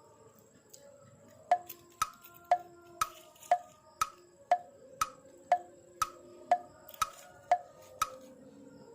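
A steady run of sharp, wood-block-like ticks, two a second, each with a brief ring, starting about one and a half seconds in and stopping about a second before the end.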